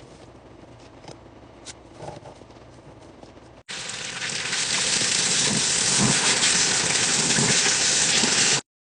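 A few light taps and clicks of eggs being handled, then, after an abrupt cut, a tap running hard with water splashing as eggs are washed. The water sound is steady and cuts off suddenly near the end.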